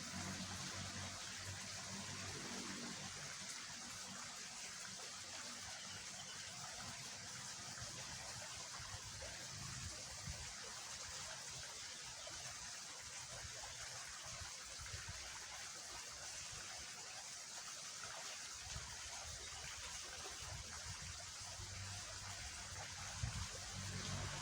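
Swollen drainage ditch after heavy rain, its water rushing steadily past.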